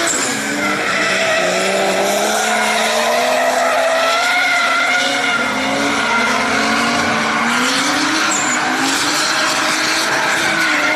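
Drift cars on track, their engines revving up and down over one another as they slide, with tyres skidding and squealing.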